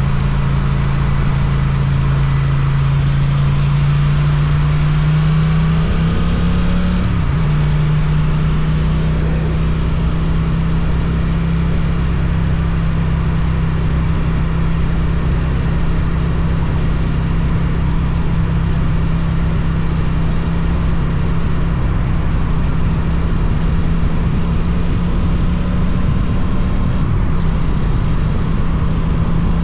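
Suzuki twin-cylinder motorcycle engine with an Akrapovič exhaust, heard while riding. The revs rise about six seconds in and dip briefly, like a gear change, then the engine settles into a steady cruise.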